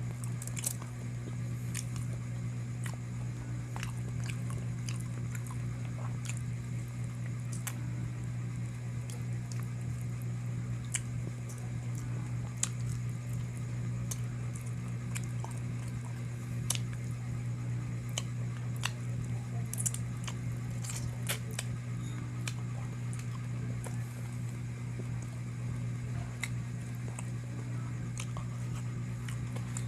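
Close-up eating sounds: chewing and biting into spicy chicken, with scattered short wet mouth clicks. A steady low hum runs underneath.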